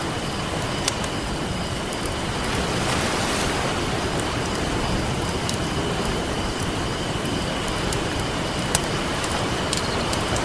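Campfire crackling with scattered sharp pops, the loudest near the end, over the steady wash of ocean waves breaking on the beach.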